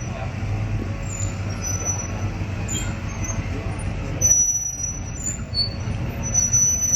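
A vehicle engine running steadily with a low hum, with a louder moment about four seconds in.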